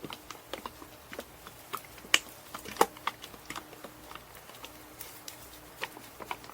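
Scattered light clicks and taps at an uneven pace, with two sharper knocks about two and three seconds in.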